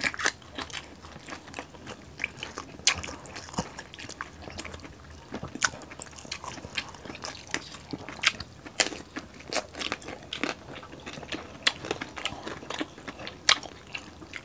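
Close-miked chewing and crunching of crispy fried pork belly (crispy liempo), with sharp crackly bites at irregular intervals.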